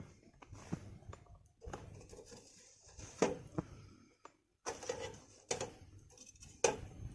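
Wood fire crackling, with irregular sharp snaps and pops over a faint hiss of burning.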